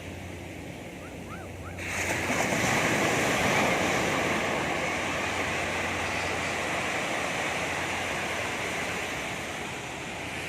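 Sea waves breaking on the shore: a wave crashes about two seconds in and its wash slowly fades.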